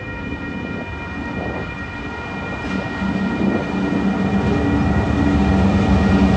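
TasRail TR class diesel-electric locomotive hauling cement wagons over a road level crossing. Its engine hum grows steadily louder as it comes close and passes. A level-crossing alarm rings steadily throughout.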